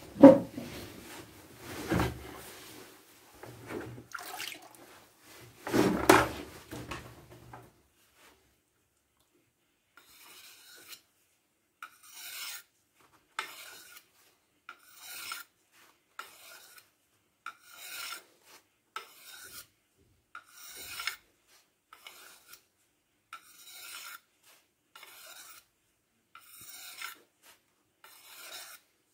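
A few loud knocks and handling clatter, then a hand file worked in long, even push strokes, about one every second and a half.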